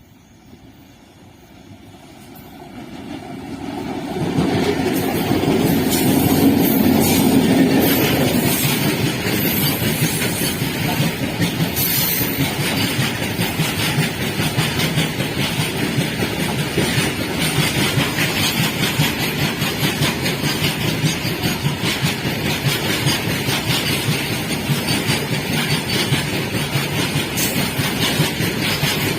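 A train approaching, growing louder over the first four seconds or so, then running past close by with a steady rumble and a dense clatter of wheels on the track.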